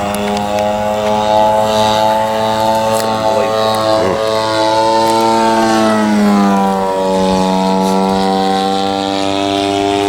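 Engine of a radio-controlled model airplane running steadily in flight, its pitch dipping lower about six to seven seconds in as it passes, then holding steady.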